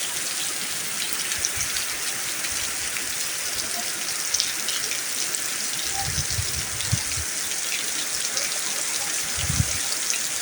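Heavy rain falling steadily, a dense even hiss, with a few short low rumbles about six and nine and a half seconds in.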